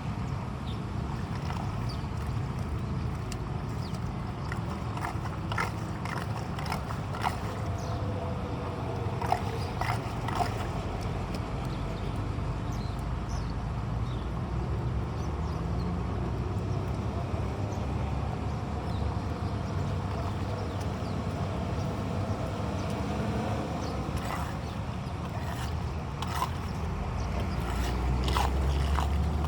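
Steady rush of rain and running floodwater with wind on the microphone, broken by scattered short clicks and knocks.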